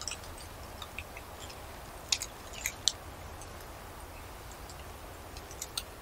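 Birds giving short, sharp chip calls, scattered clicks in small clusters, the loudest two about two and three seconds in, over a steady low rumble.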